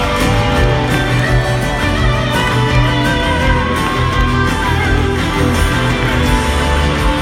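Live country rock band playing, led by an electric guitar line with bent, sliding notes over bass and drums.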